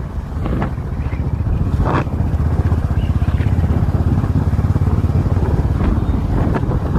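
Motorcycle engine running steadily under way, a fast even exhaust beat that picks up slightly about a second in.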